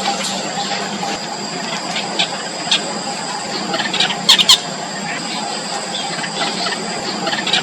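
Four-day-old nestlings giving thin, high begging squeaks to be fed, with a loud cluster of rapid chirps about four seconds in, over a steady background hum.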